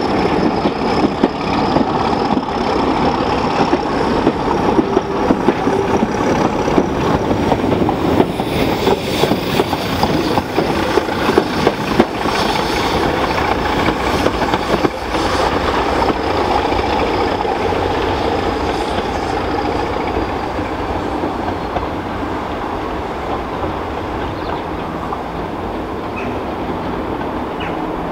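Passenger train rolling past and drawing away, its wheels clattering over the rail joints as the coaches and then the trailing Bulleid Pacific steam locomotive 34053 go by. The sound fades steadily through the second half as the train recedes.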